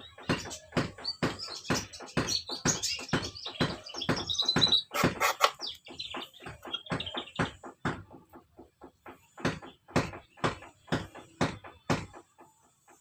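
Birds chirping over a steady run of sharp knocks, about two to three a second, from hand-working birdcage spokes. The chirping fades out about halfway through while the knocks go on.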